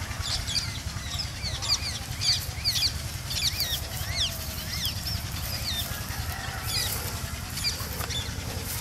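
Birds chirping: many short, quick calls that rise and fall in pitch, one after another, over a steady low rumble.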